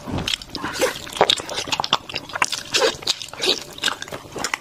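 Close-miked chewing of a glutinous rice cake with red bean paste filling: irregular wet smacks and squelches of the mouth working the soft, sticky dough.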